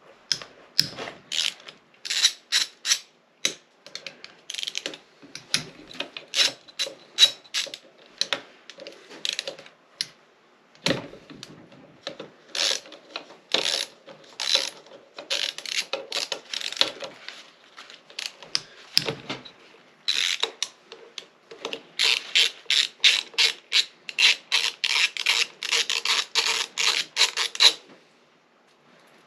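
Hand ratchet wrench clicking in quick runs as engine bolts are wound out, with short pauses between runs. The longest, densest run of clicks comes near the end.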